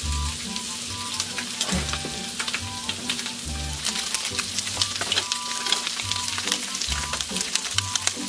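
Chicken wings frying in a frying pan: a steady sizzle full of small pops and crackles.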